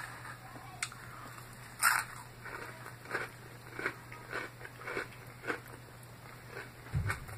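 Crunchy salad being chewed close to the microphone: one sharp crunch about two seconds in, then a run of smaller crisp crunches about twice a second.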